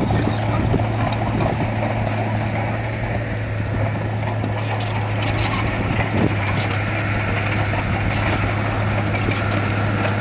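Heavy diesel earthmoving machinery running steadily at a constant engine speed, with scattered knocks and clinks over it.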